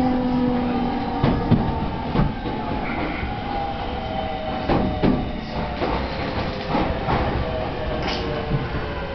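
Electric train running through a tunnel: a steady rumble with a motor whine that slides slowly down in pitch as the train slows, and irregular clicks from the wheels passing rail joints.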